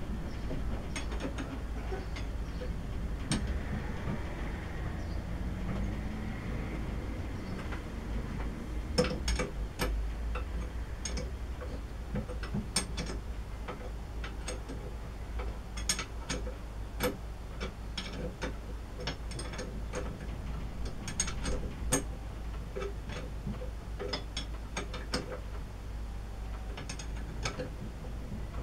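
A steel spanner working a 5/16 Whitworth nut or bolt on a cast-iron lathe. It gives many sharp, irregular metallic clicks and clinks as the spanner is turned and refitted, over a low steady hum.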